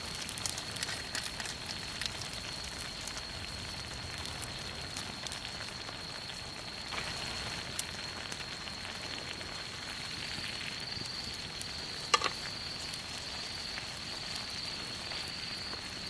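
Wood campfire crackling: scattered pops and snaps over a steady hiss, with a thin high tone held underneath and one sharper crack about twelve seconds in.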